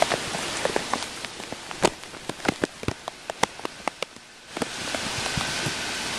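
Hurricane rain falling steadily, with irregular sharp taps of drops striking the plastic bag that covers the camera. The rain hiss dips and then swells louder about four and a half seconds in.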